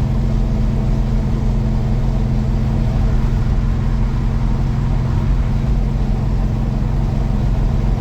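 1967 Pontiac GTO's 400 cubic inch V8 running at a steady cruise, with road noise, heard from inside the car; the engine pitch stays level throughout.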